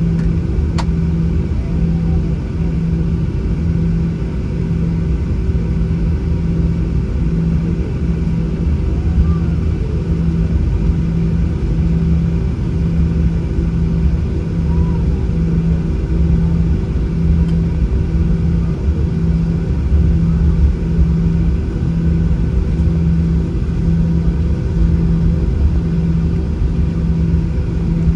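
Boeing 737-800's CFM56-7B engines and airframe heard inside the cabin: a loud, steady rumble with a constant hum that pulses about once a second. The pitch does not rise.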